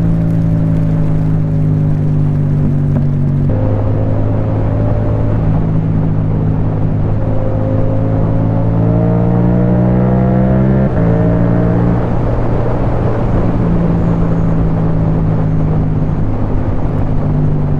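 Yamaha MT-07's parallel-twin engine through an Akrapovic titanium exhaust, under way and shifting up: its pitch drops suddenly about three and a half seconds in and again about eleven seconds in, and climbs steadily in between. A steady rush of wind and rain noise runs beneath it.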